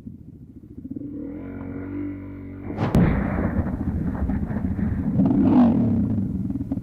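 Motorcycle engine running under a helmet camera, with a steady pitched tone coming in about a second in. A sharp loud bang about three seconds in is followed by loud, rough noise.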